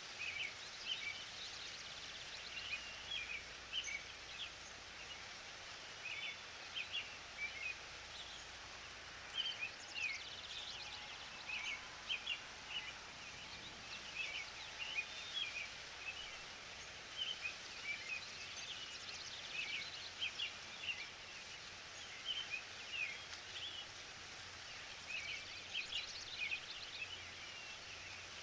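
Forest ambience with small birds chirping over a steady background hiss: many short, high chirps come in quick clusters every second or two.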